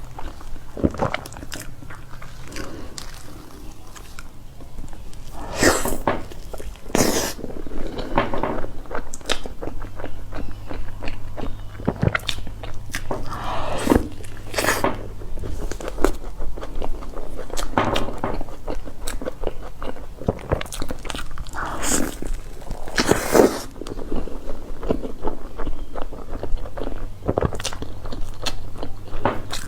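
Close-miked eating of cake and other desserts: steady chewing with wet mouth clicks, and a handful of louder, crunchier bites.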